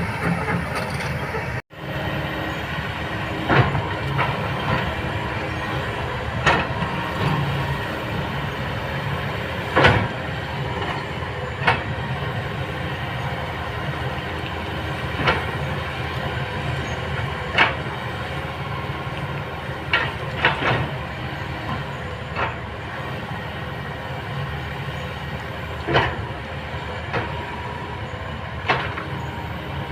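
Kobelco hydraulic excavator running steadily under load, with about a dozen sharp metallic clanks at irregular intervals from the machine working. The sound drops out for a moment about two seconds in.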